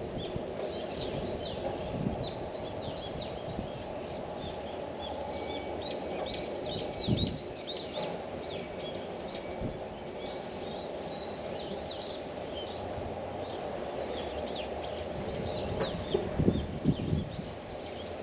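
Many small birds chirping, short high calls overlapping one another throughout, over a steady low background noise. There are a few dull thumps near the end.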